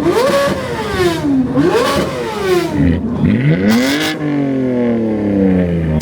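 A car engine revved hard three times, each time climbing in pitch and falling back, the last fall long and slow.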